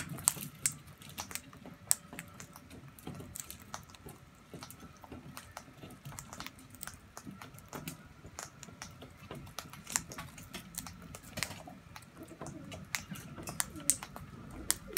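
Birds pecking seed off a hard feeding surface: irregular sharp taps and clicks of beaks, several a second.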